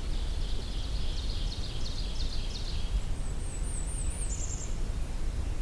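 Blackburnian warbler singing a variant song: a run of quick repeated notes, then about three seconds in a very high, thin, wavering phrase. A steady low background rumble runs underneath.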